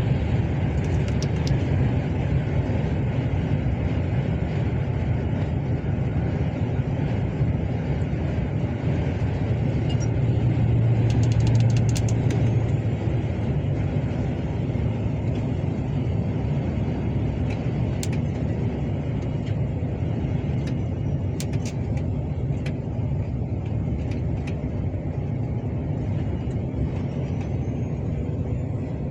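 Steady engine and road noise from a moving road vehicle, heavy in the low end, swelling a little louder for a couple of seconds about a third of the way in, with a few faint clicks.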